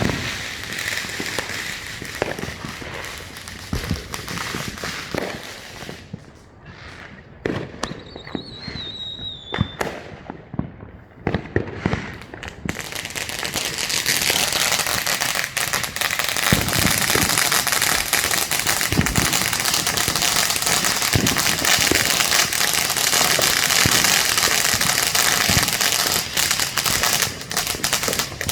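Neighbourhood consumer fireworks going off: scattered bangs and crackling, a short falling whistle about eight seconds in, then from about thirteen seconds a dense, continuous crackle with bangs through it, like strings of firecrackers.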